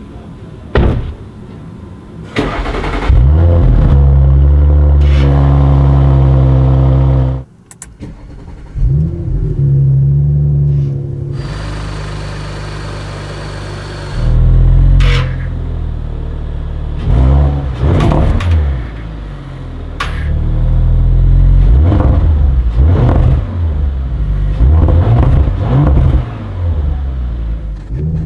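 2021 Audi RS5 Sportback's 2.9-litre twin-turbo V6 starting up and running at a steady high idle, then revved again and again in short throttle blips that rise and fall.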